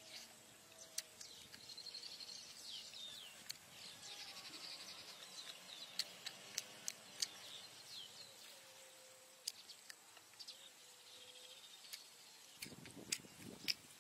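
Birds chirping and twittering in the background, with scattered sharp clicks and smacks from someone eating with his fingers.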